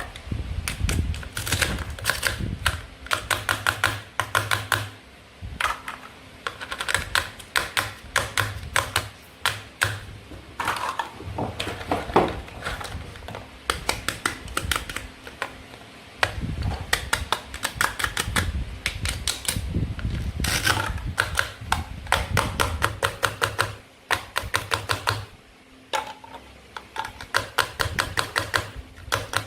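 Rapid plastic clicks and taps of toy play food being cut and handled, with occasional dull knocks on the board beneath.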